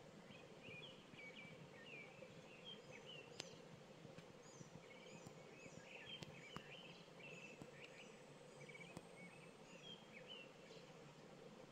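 Many small birds chirping faintly at dusk, short irregular calls overlapping one another, with a few sharp ticks and a low steady hum underneath.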